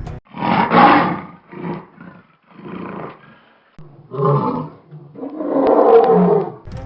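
A large wild animal roaring, five rough calls in a row, the first and last the longest and loudest.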